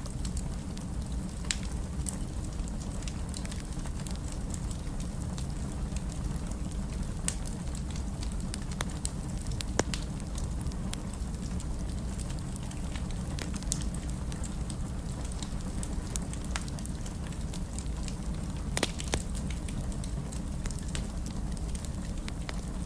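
Wood fire in a fireplace crackling steadily, with scattered sharp pops and snaps over a low, even rumble of burning.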